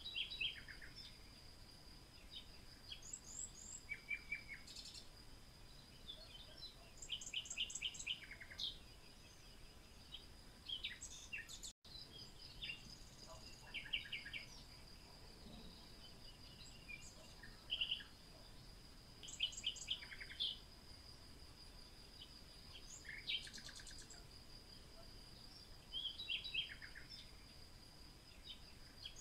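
Birdsong: several birds chirping and trilling in short, scattered phrases over a steady high-pitched whine. The sound briefly cuts out about twelve seconds in.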